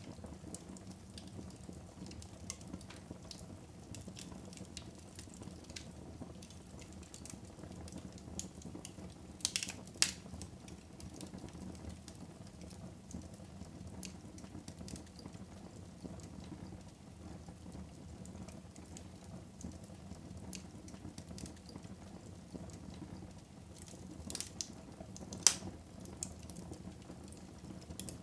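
Wood fire burning in a fireplace, crackling over a steady low hiss, with scattered sharp pops; the loudest pops come about ten seconds in and near the end.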